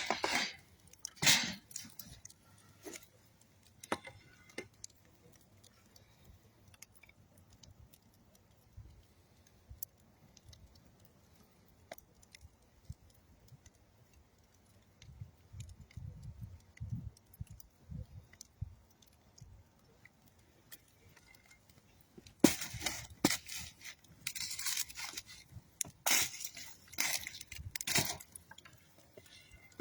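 Wood fire of old railroad ties and dead tree wood crackling, with scattered sharp pops. Dense bursts of crackling come about a second in and again from about 22 seconds in until near the end.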